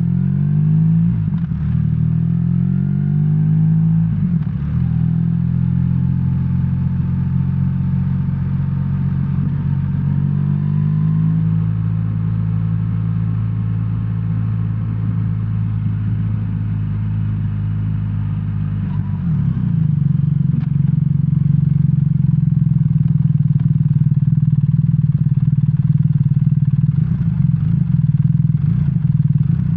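BMW R1300R's boxer twin engine running under way. In the first few seconds the engine note dips and rises several times, it holds steady through the middle, then it picks up and runs louder from about two-thirds of the way in.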